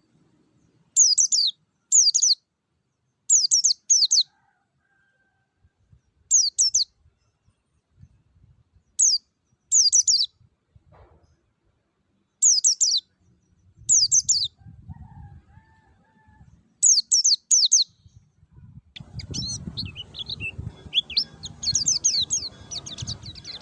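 White-eye (pleci) singing in short phrases of rapid, high, downward-slurred notes, about ten phrases with pauses between them. Near the end the song turns into denser, continuous twittering over a low rumbling background.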